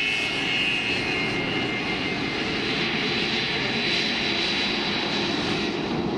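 Vintage jet fighter's turbojet engine running: a steady broad roar with a high whine that drops slightly in pitch and fades about two seconds in, then a higher whine.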